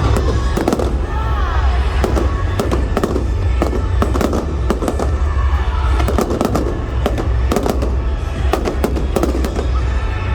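Fireworks display: a dense, continuous barrage of sharp bangs and crackles over deep booming, with a short whistle gliding up and down about a second in. Music plays underneath.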